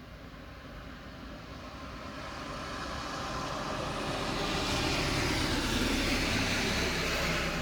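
A vehicle passing on a wet road: its tyre hiss swells over several seconds, is loudest about five to seven seconds in, then begins to fade.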